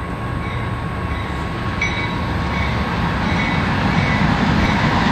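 Diesel locomotives of a BNSF intermodal freight train approaching, a steady low rumble of engines and wheels on rail that grows gradually louder.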